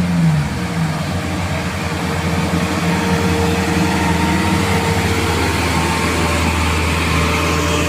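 Heavy truck's diesel engine running under load, a steady low drone with a few fainter higher whines over it.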